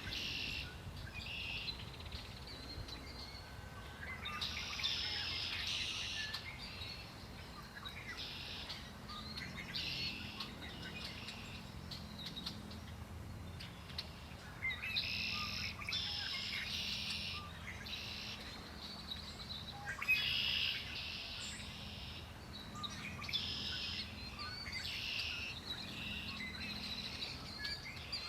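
Songbirds singing, several song phrases of a second or two each coming every few seconds, over a low steady rumble.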